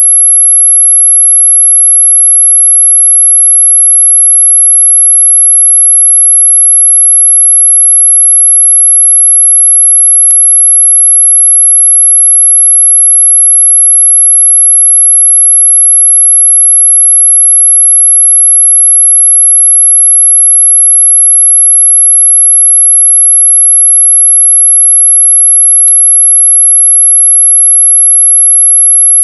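Synthetic mosquito-repellent tone: one loud, very high-pitched, perfectly steady whistle, with two faint clicks about 10 seconds and 26 seconds in. It is sold as ultrasonic, but its pitch lies within human hearing.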